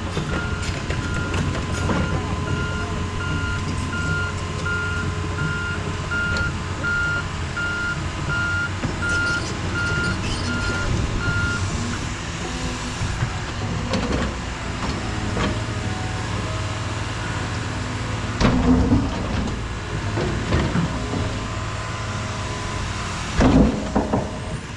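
Heavy machine's backup alarm beeping in steady short pulses, a little over one a second, over a running engine; the beeping stops about halfway through. After that the engine carries on, with a few loud clanks near the end.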